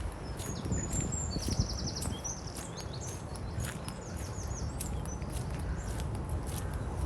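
Wind buffeting the microphone as a low, steady rumble, while a small songbird sings short trilled phrases twice, with light footstep ticks underneath.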